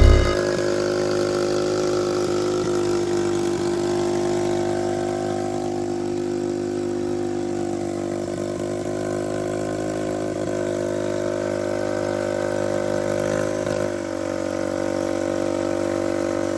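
Engine running steadily at an even speed, its tone shifting slightly about four seconds in and again near fourteen seconds.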